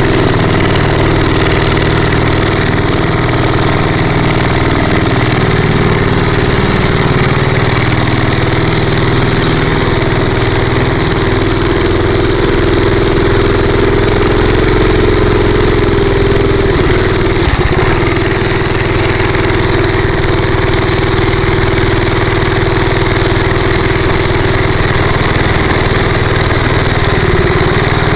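Rupp Bonanza minibike's small gas engine running steadily while being ridden, its note holding nearly level, with a short knock about two-thirds of the way through.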